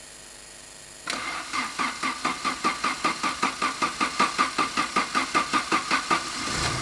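Saab 90's engine cranked over by the starter motor, pulsing about five times a second for roughly five seconds, then catching and running near the end. It is the first start on a freshly rebuilt Stromberg carburettor.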